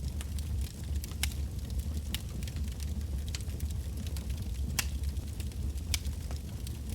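Wood bonfire burning, with irregular sharp crackles and pops from the burning logs over a steady low rumble of the flames.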